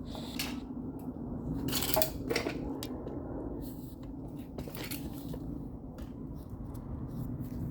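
Metal clinking and scraping: a few separate clatters of metal pieces being handled, the loudest about two seconds in and another near five seconds, over a steady low hum.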